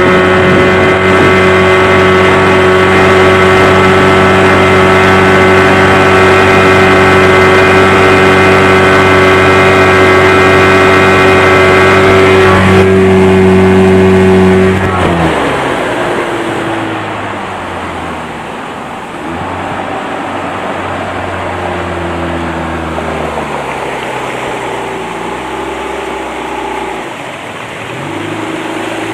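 Two-cylinder, two-stroke 40 HP Mariner outboard (Yamaha-built) running flat out at a steady high pitch. About fifteen seconds in it is throttled back, the pitch dropping, and it runs on at lower speed with the revs rising and falling over rushing water.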